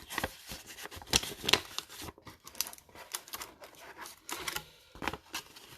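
Sealed foil booster packs and paper envelopes being handled: an irregular run of crinkles and sharp clicks of packaging, loudest about a second and a half in.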